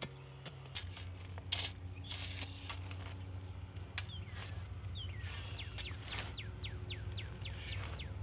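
A steady low hum under scattered short knocks, with a bird singing a run of short falling whistles that come faster from about four seconds in.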